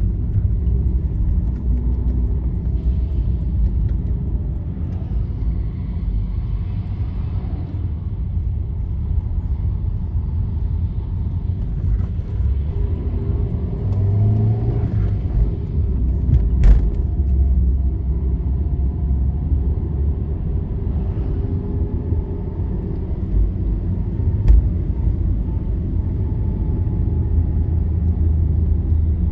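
Steady low road rumble and engine drone of a vehicle travelling along a highway, with two brief sharp clicks, one a little past the middle and one later.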